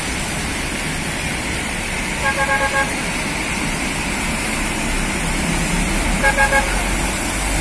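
A vehicle horn tooting in quick short pulses, four toots about two seconds in and three more near the end, over steady road traffic and engine noise.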